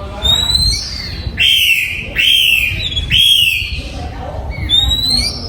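Oriental magpie-robin singing: a rising whistle, then three loud arched whistled notes about a second apart, and another rising whistle near the end.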